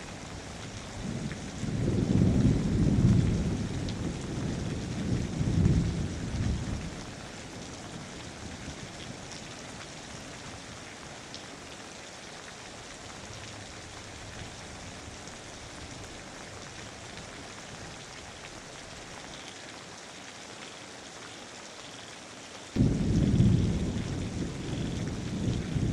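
Steady rain falling, with rolling thunder rumbling through the first several seconds, dying away, then breaking in again suddenly near the end.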